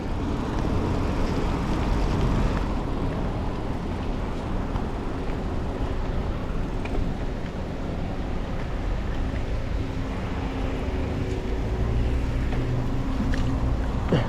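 Steady rushing noise of riding a mountain bike in the rain: wind buffeting the bike-mounted microphone, with tyre and rain noise underneath.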